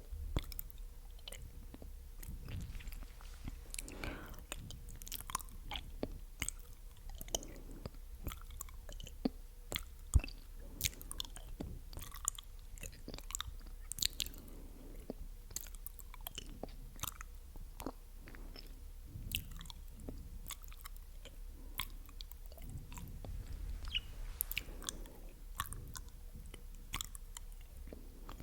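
Close-microphone ASMR mouth sounds: an irregular run of short, wet, sticky clicks and smacks of lips and tongue, with one louder click about ten seconds in.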